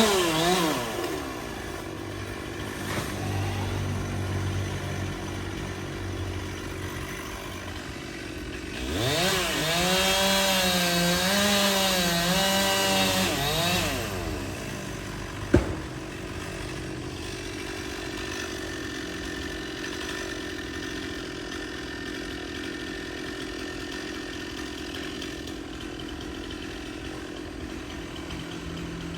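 Stihl two-stroke chainsaw coming off a rev at the start and running low, then revved high for about five seconds with a wavering pitch before dropping back. A single sharp knock follows, then a quieter steady engine sound.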